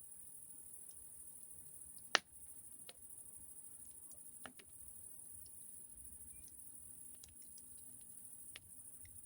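Wood fire crackling: scattered sharp pops, one much louder pop about two seconds in, over a faint steady high hiss.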